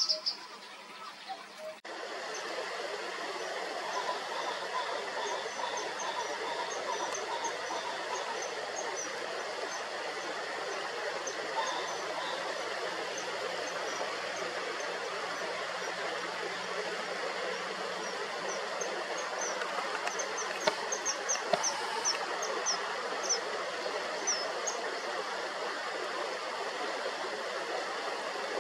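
Stream water rushing steadily, with common kingfishers giving short, high, thin calls in quick runs over it, densest about twenty to twenty-five seconds in. The first two seconds are quieter, with a single bird chirp before the water sound starts.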